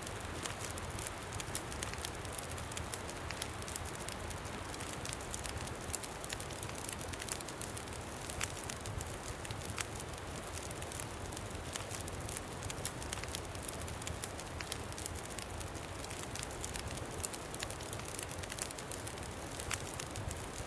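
Campfire crackling with frequent small pops, over a steady low rumble of wind.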